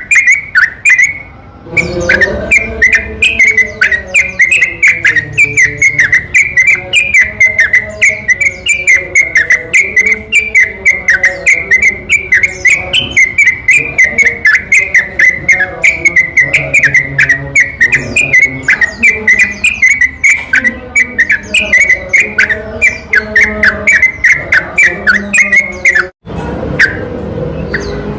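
Yellow-vented bulbul (trucukan) song on a bird-lure recording: a fast, unbroken run of chirping whistled notes, several a second, with lower tones layered underneath. The sound drops out briefly near the end and then resumes.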